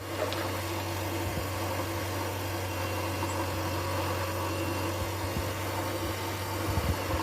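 Toy remote-control JCB backhoe's small battery-powered electric motors and plastic gears whirring steadily, with a few light low knocks near the end.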